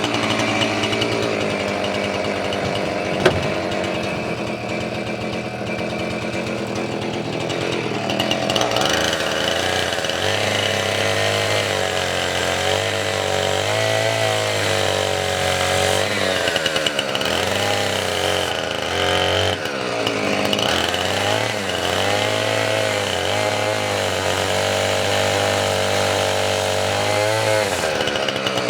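Two-stroke chainsaw running while bucking firewood. From about eight seconds in, its engine pitch rises and falls again and again as the load changes. A single sharp click sounds about three seconds in.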